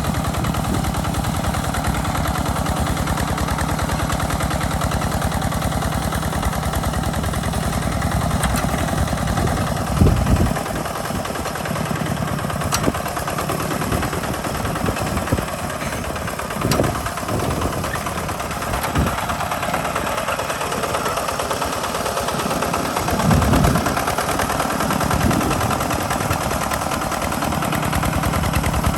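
Two-wheel walking tractor's single-cylinder diesel engine chugging steadily with a rapid, even firing beat while plowing, with a few louder low thumps along the way.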